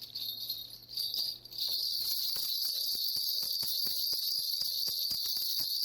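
Small metal bells, most likely a shaman's hand-bell rattle, shaken rapidly and without pause, giving a continuous high jingling shimmer that settles into a steady fast rhythm about one and a half seconds in.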